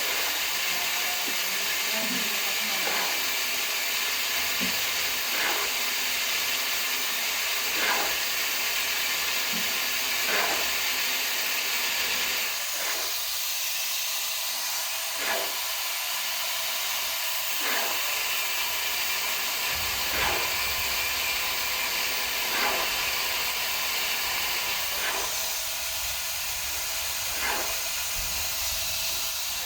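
Arc welding: the steady frying hiss of a welding arc running continuously, with a faint pulse about every two and a half seconds.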